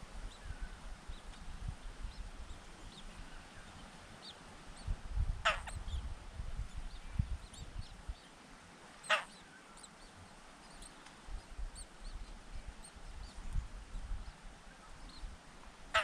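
Birds calling at a nest: two short, harsh calls a few seconds apart, with many faint high chirps scattered around them over a low rumble.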